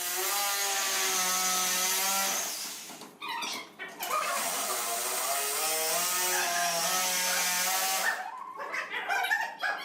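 Electric power tool running on wood in two spells of a few seconds each, with a whining hum whose pitch wavers as it works.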